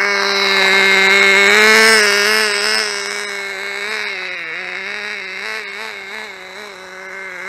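Tiny engine of a 1/16 scale radio-controlled car running at high revs with a buzzing whine. It grows loudest about two seconds in, then its pitch wavers up and down as the throttle is worked.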